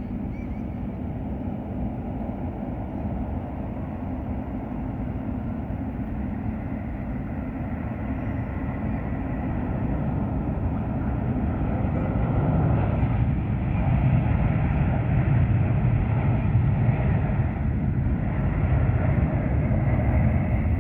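Airbus A350 airliner's jet engines rumbling as it passes overhead, growing steadily louder about halfway through and staying loud.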